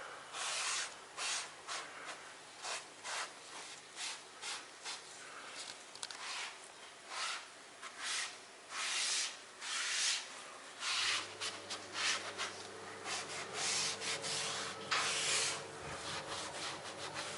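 Spatula scraping as grout is pressed into the joints of a fireplace: many short, irregular scraping strokes.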